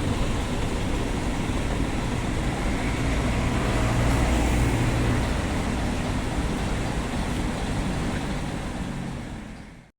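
Scania heavy truck running on the road: steady engine hum with tyre and road noise, swelling slightly about halfway through, then fading out quickly at the very end.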